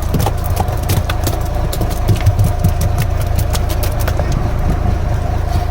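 Fishing boat's engine idling steadily with a low rumble and a constant hum, with many scattered sharp ticks over it.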